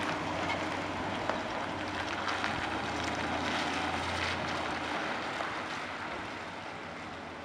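1964 Pontiac Bonneville hearse's V8 engine running as the car pulls away, with a steady low hum that grows fainter as it drives off.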